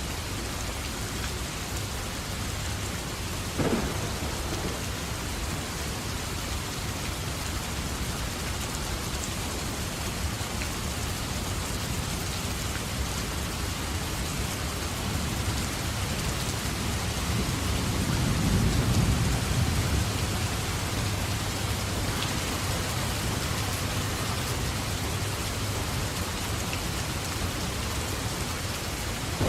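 Steady heavy rain falling during a thunderstorm. A sharp crack of thunder comes about three and a half seconds in, and a low rolling rumble of thunder swells and fades a little past the middle.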